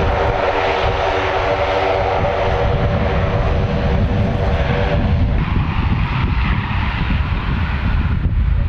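Military aircraft engines running loud as the aircraft passes, a heavy rumble under a steady hum that fades out about five seconds in.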